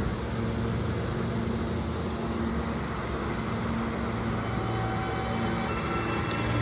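New York City subway L train pulling away after its doors close, its electric traction motors humming under a low rumble. Near the end the propulsion whine steps up in pitch as the train gathers speed.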